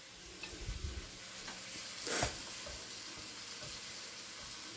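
Sliced peppers and onions sizzling in a stainless steel wok, a steady frying hiss. About a second in there are a few low handling thumps, and just after two seconds a single sharp knock.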